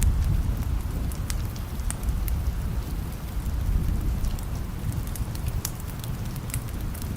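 Steady rain with a low rumble of distant thunder that slowly fades, and scattered sharp crackles from a wood fire.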